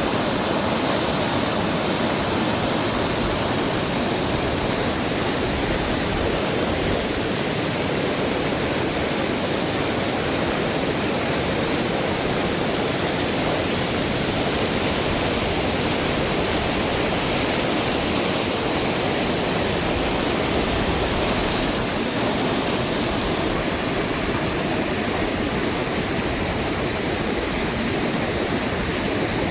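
Steady rush of fast-flowing, swollen river water.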